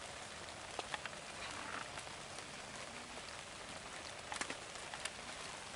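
Light rain falling on dead leaves: a faint, steady patter with a few sharper ticks scattered through it, a cluster of them about four and a half seconds in.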